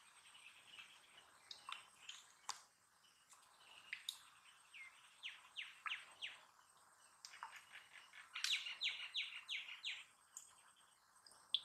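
Small birds chirping in the background: short, quick notes that fall in pitch, in two runs about halfway through and again later, the later run faster, among scattered faint clicks.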